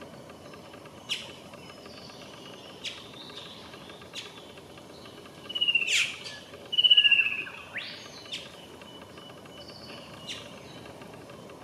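Birds calling: short, sharp downward-sweeping chip notes every second or two, with a louder burst of calls and a fast trill of notes about six to seven seconds in.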